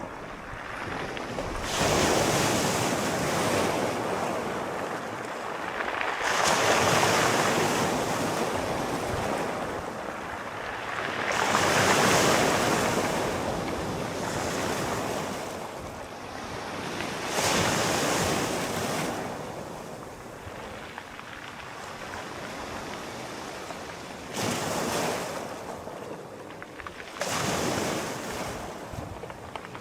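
Ocean waves breaking and washing in, each surge of surf swelling and then fading away, about six in a row a few seconds apart.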